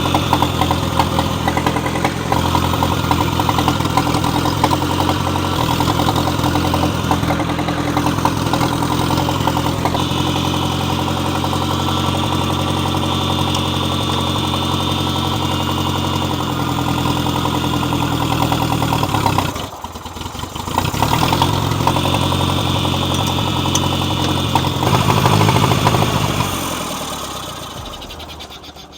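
John Deere 1010 tractor's carbureted four-cylinder gasoline engine running steadily, briefly dropping away about two-thirds through, picking up again, then dying away near the end. The owner suspects an air leak.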